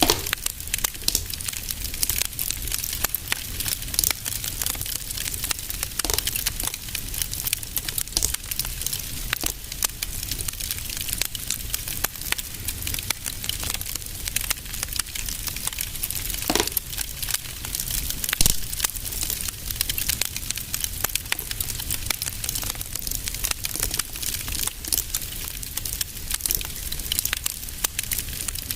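Fire crackling in a fireplace: a dense, irregular stream of small crackles and ticks over a low steady rumble, with a couple of louder pops a little past the middle.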